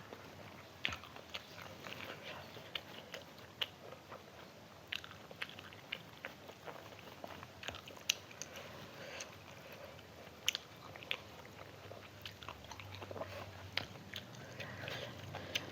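Close-up eating sounds: a person chewing and biting food, with irregular wet clicks and crunches from the mouth.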